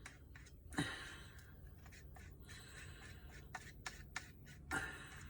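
Paint being stirred and scraped around the sides of a plastic yogurt pot: scattered light taps and scrapes, with a louder knock about a second in and another near the end.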